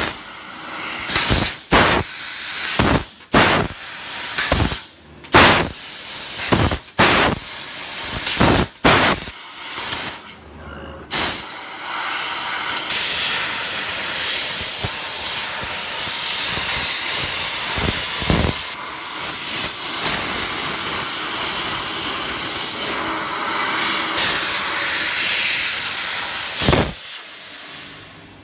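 Fiber laser cutting machine's assist gas hissing out of the cutting head: for about ten seconds a run of short, separate hissing bursts with brief gaps between them, then one steady, loud hiss that stops shortly before the end.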